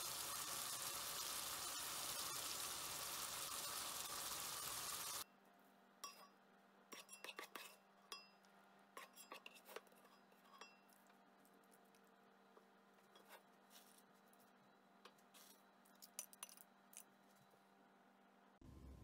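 Chicken stir-fry sizzling steadily in the pan, cutting off suddenly about five seconds in. Then scattered light clinks and taps of utensils against a dish.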